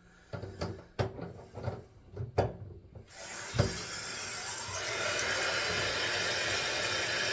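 A few knocks and clicks as the handles of a newly repaired Delta Roma tub faucet are worked, then water starts rushing from the tub spout about three seconds in, building to a steady flow.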